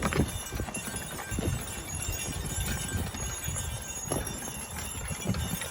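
Hoofbeats of a team of Belgian draft horses walking on field soil while pulling a plough: irregular dull thuds with no steady rhythm.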